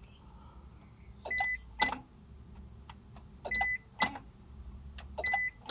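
Fuel pump relay of a 2000 Honda Passport clicking as the key is turned to crank, three times about two seconds apart, each time a pair of sharp clicks with a short high beep between them. The engine does not crank: part of a no-crank, no-start fault.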